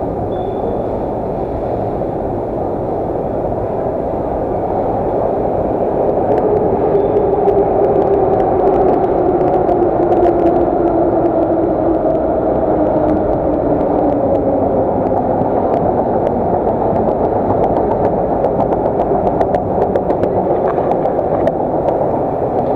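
Moscow metro train running, heard from inside the carriage: a loud, steady rumble of wheels and running gear. A motor whine sinks in pitch through the middle, and light clicks from the wheels come near the end.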